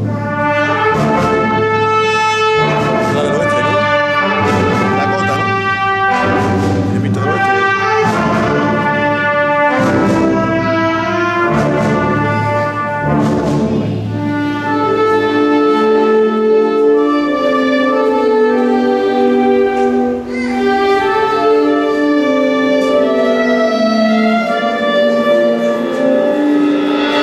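A live brass-led band playing in a church: strong chords with a low bass line, struck about once a second, give way about halfway to softer, held melodic lines.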